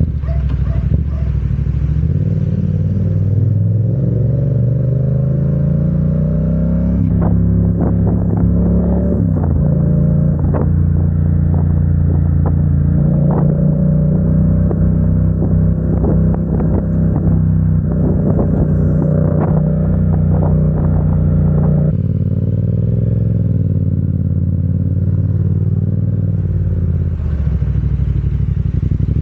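Motorcycle engine under way: its pitch rises over the first seven seconds as it accelerates, then holds steady and drops about 22 seconds in. Many short clattering knocks sound over the steady stretch.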